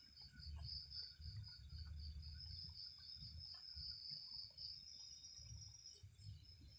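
Night insects, crickets or similar, chirring steadily in a continuous high-pitched drone, faint, with an uneven low rumble underneath.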